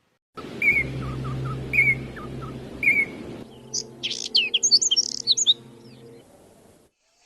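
Birds calling: a short call repeated three times about a second apart, then a quick run of high chirps.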